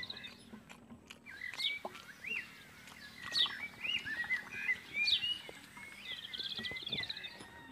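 Birds chirping and calling: a short falling whistle repeats about every second and a half among other brief rising and falling notes, with a fast trill near the end.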